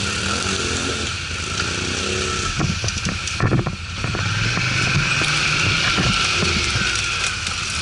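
ATV (quad bike) engine running steadily, with a few short knocks a few seconds in.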